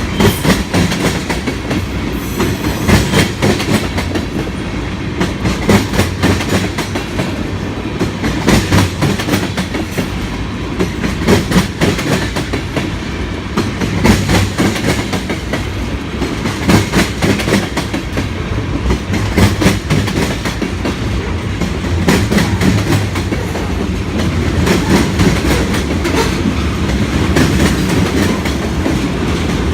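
Freight cars of a BNSF manifest freight train rolling past under a steady rumble. Their wheels clack over the rail joints in a cluster every two to three seconds.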